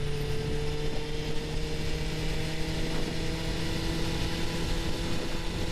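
Suzuki GSX-R750 inline-four engine running at steady revs while riding, over a steady rush of wind noise.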